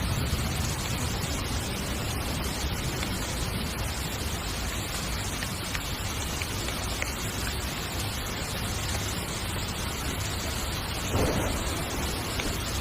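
Heavy rain falling steadily on a tent, a dense even hiss with no let-up. About 11 seconds in there is a brief louder burst.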